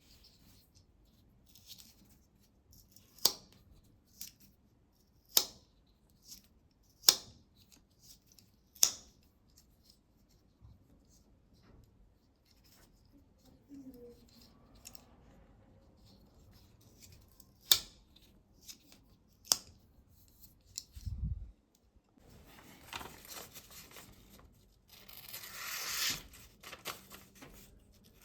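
A series of sharp snipping cuts, six of them spaced one to two seconds apart, then a few seconds of scraping, rubbing noise near the end.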